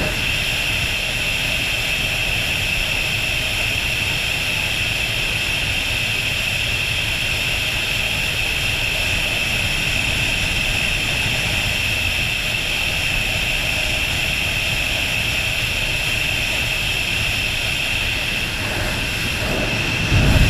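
Steady rush of wind and engine noise from a 2003 Aprilia RSV Mille V-twin motorcycle being ridden at an even speed.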